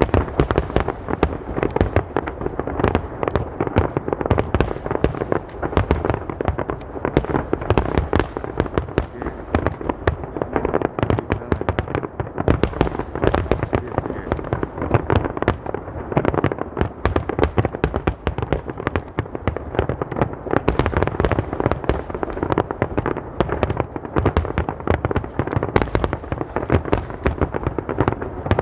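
Aerial fireworks bursting in a dense, continuous barrage, many bangs and crackles each second without a break: the closing finale of a large fireworks display.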